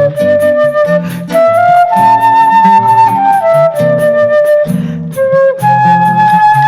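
Choro music played live: a flute carries a flowing melody of quick-changing notes over a moving lower accompaniment of plucked strings, with a light, steady percussion pulse.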